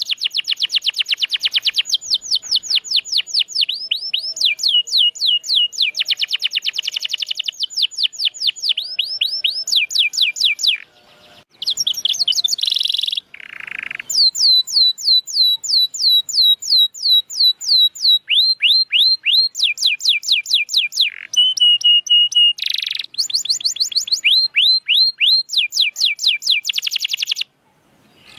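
Domestic canary singing: rapid trills of repeated downward-sweeping whistled notes, switching to a new trill every second or two, with a few short harsher notes and brief pauses between phrases.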